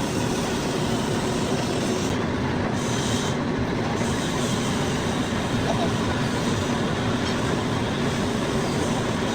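Steady mechanical running noise of a metal-turning lathe in a machine shop, with a faint constant hum underneath.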